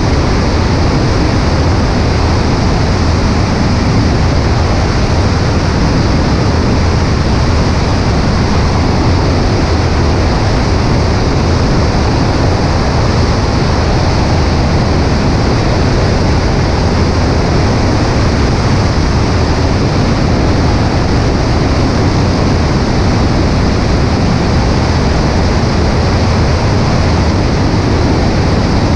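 Cessna 140A's piston engine and propeller droning steadily, buried in heavy wind rush over a camera mounted on the right wing.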